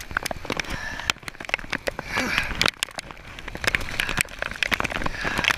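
Kayak paddling through choppy water in a storm: splashing swells every second or two, over many irregular sharp ticks and knocks. Wind rumbles on the microphone underneath.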